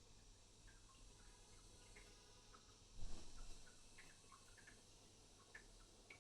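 Near silence with faint soft ticks and a brief soft rustle about three seconds in: a crochet hook and yarn being worked through a single crochet stitch.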